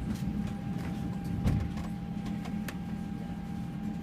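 Airbus A320 cabin at the gate during boarding: a steady low hum of the air-conditioning with a faint steady whine, and scattered light clicks and knocks, one louder thump about a second and a half in.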